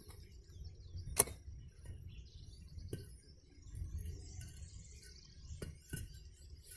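A few faint, sharp clicks and knocks over a quiet low background rumble, with no machine running.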